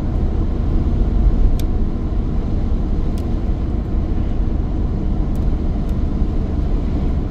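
A car driving along: steady road and engine rumble, with a few faint ticks.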